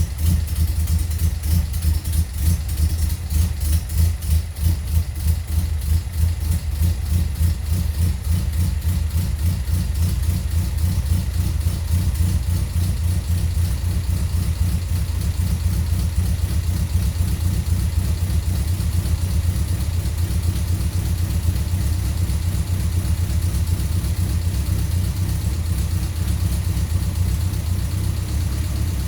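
Toyota Corolla KE55's 1.3-litre 4K-C four-cylinder engine idling as it warms up after a cold start, with a loud tappet tick. The idle pulses unevenly for the first several seconds, then settles to a steady beat.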